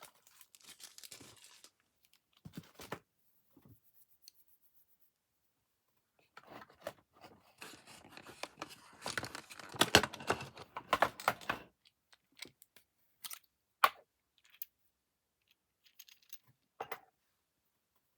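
Plastic model locomotive being taken apart by hand, its bogies and body shell worked loose: scraping and rustling of plastic parts, heaviest for a few seconds in the middle, then several separate sharp clicks.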